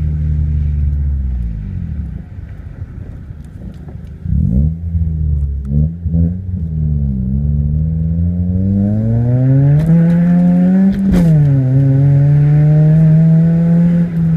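2004 Honda Civic's 1.7-litre four-cylinder engine with a cat-back exhaust and AEM cold air intake, blipping a few times and then revving up with a steadily rising pitch. The pitch drops sharply at a gear change about eleven seconds in, holds, and falls near the end. A hiss of tyres on a wet road grows as the car picks up speed.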